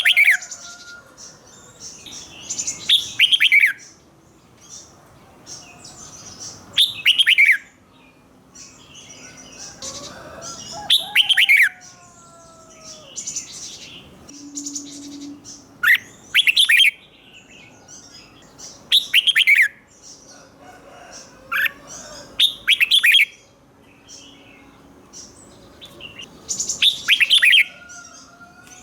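Red-whiskered bulbul singing: short loud phrases of quick falling whistled notes, repeated about every four seconds and often given twice in a row, with fainter chirps in between.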